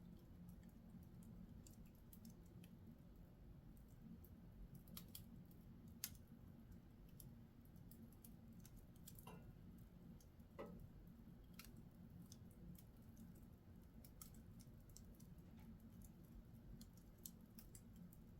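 Wood fire crackling in a fireplace: faint, irregular snaps and pops over a low, steady background rumble, with one sharper crack about six seconds in.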